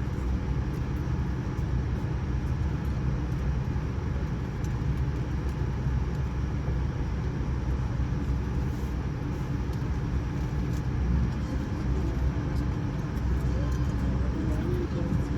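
Steady low rumble and hum of a Boeing 787-9 airliner's cabin, with faint ticks over it.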